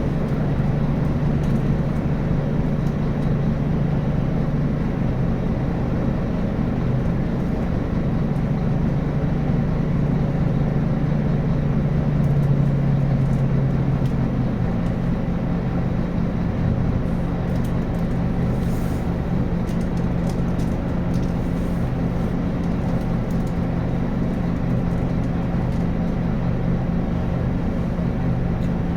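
Scania N280UB city bus's diesel engine running steadily under way, with a ZF Ecomat automatic gearbox. The engine note climbs a little, then drops to a lower note about halfway through and holds there.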